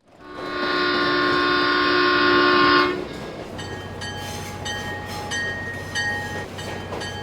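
Multi-chime train horn sounding one long blast of about three seconds, then cutting off. After it a bell rings at a steady pace, about one strike every half second or so.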